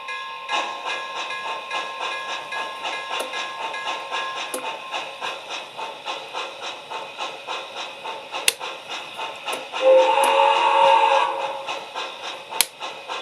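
MTH Hudson 4-6-4 model locomotive's ProtoSound 3 sound system playing steam-engine chuffing at about three chuffs a second. About ten seconds in, a steam whistle blows for about a second and a half over the chuffing.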